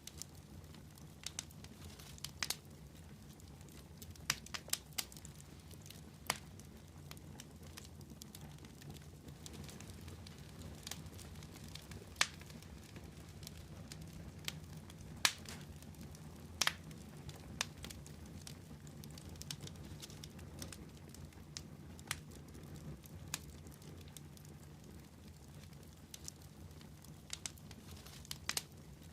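Wood fire crackling and popping: irregular sharp pops, some in quick clusters, over a steady low rumble of the burning fire.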